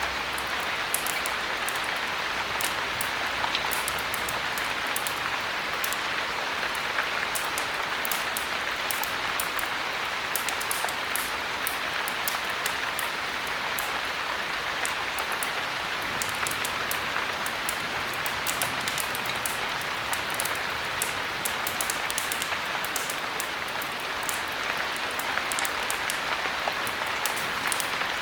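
Steady heavy rain: a dense, even hiss with many small sharp ticks scattered through it.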